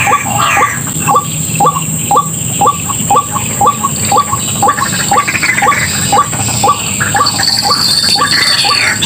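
White-breasted waterhen calling, a rapid run of repeated harsh notes at about two to three a second. A steady high-pitched whine lies underneath, and a second high tone joins about three-quarters of the way through.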